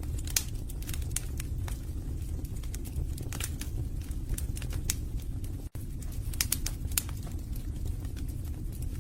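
Wood fire burning in a fireplace: a steady low rumble of flames with frequent irregular crackles and pops from the burning logs. The sound cuts out for an instant a little past halfway.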